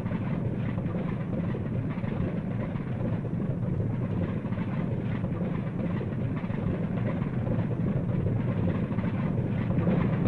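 Propeller airliner's piston engines running steadily as the plane taxis, a dense low rumble that grows slightly louder near the end.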